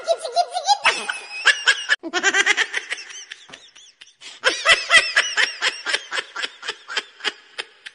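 Laughter in quick repeated ha-ha pulses, in two bouts with a short break about four seconds in, fading toward the end.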